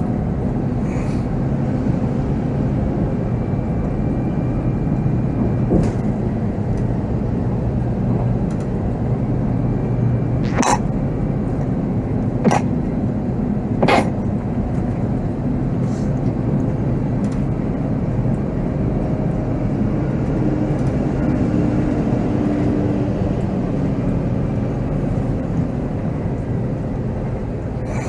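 Volvo B7R coach's diesel engine running and road noise inside the cab while driving, a steady low drone. Three sharp clicks or rattles come between about ten and fourteen seconds in.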